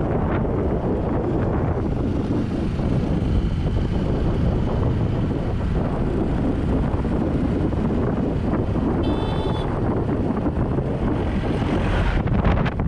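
Wind buffeting the GoPro's microphone during a ride, over a steady low rumble of the moving vehicle. A brief high beep sounds about nine seconds in.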